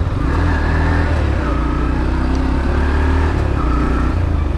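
Motorcycle running at a steady pace, with a heavy low engine drone and road and wind noise.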